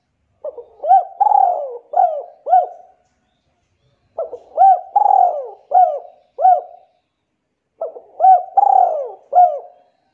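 A bird's call: the same short phrase of swooping, rising-and-falling notes given three times, each phrase about two and a half seconds long.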